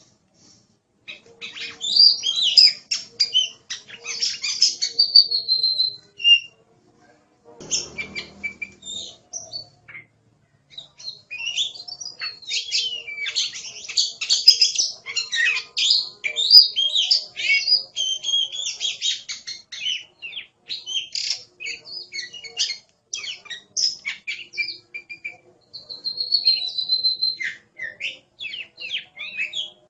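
Oriental magpie-robin (kacer) singing a fast, varied run of whistles and chirps, with short pauses about 7 and 10 seconds in.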